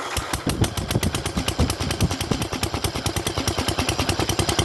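Small engine of a Sears garden tractor running through a pancake muffler, just after starting. Its exhaust comes out as rapid, even pops.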